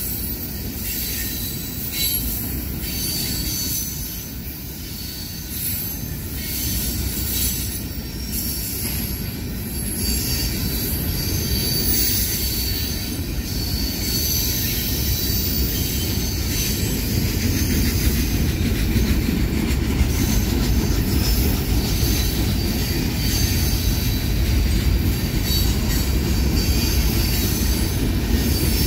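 Covered hopper cars of a freight train rolling past: a steady rumble of wheels on rail, with high wheel squeal that comes and goes. The rumble grows louder about a third of the way through.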